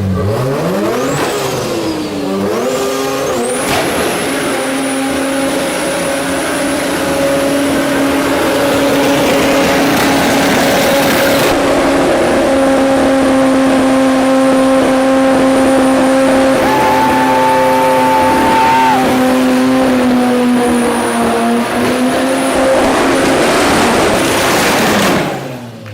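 Rotary engine revving hard in a few quick blips, then held high near the rev limit for a long steady stretch. The pitch sags a little near the end and the sound cuts off abruptly.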